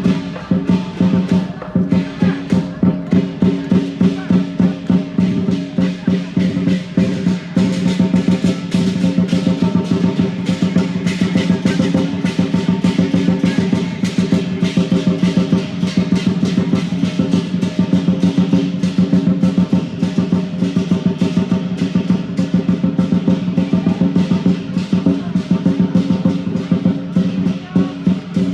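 Lion dance percussion band playing: a big drum beaten in a fast, steady rhythm with clashing cymbals and a ringing gong.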